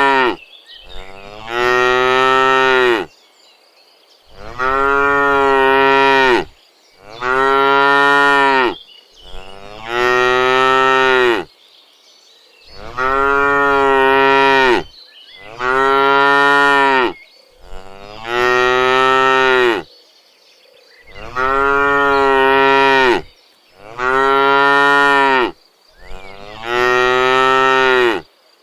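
Cattle mooing over and over: about ten long, loud moos of roughly two seconds each, following one another in an even rhythm with short pauses between.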